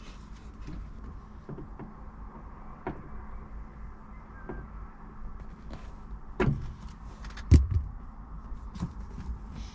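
Scattered knocks, clicks and rattles of curtain fittings being handled and fitted in a truck cab, the two loudest knocks about six and a half and seven and a half seconds in, over a steady low hum.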